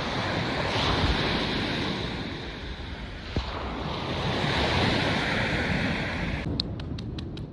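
Ocean waves washing and swelling twice, with wind buffeting the microphone. The sound cuts off abruptly near the end, leaving a quick run of sharp clicks.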